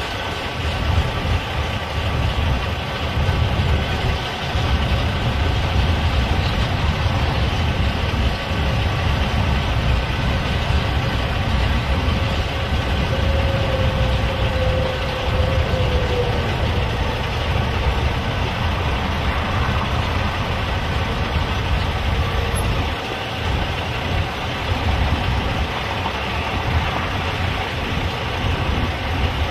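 Freight cars of a long Union Pacific manifest train rolling past close by: a steady low rumble and rattle of steel wheels on rail, with a brief faint whine a little before halfway.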